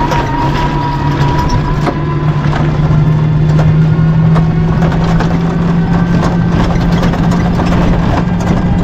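Ride inside a battery-powered toto (e-rickshaw): a steady motor hum that rises slowly in pitch as it gathers speed, over road rumble and the rattling of the vehicle's body.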